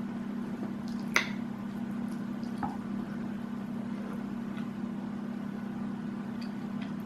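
Close-up eating sounds of a person eating biryani: soft wet mouth and food noises with a sharp click about a second in and a lighter knock a little later, over a steady low hum.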